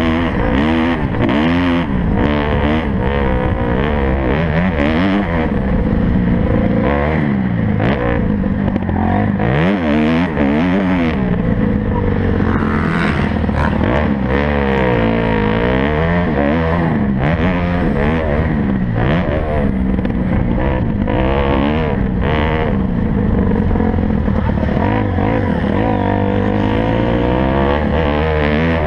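Several motocross bikes racing at once, their engines revving up and dropping back over and over, the pitches crossing each other.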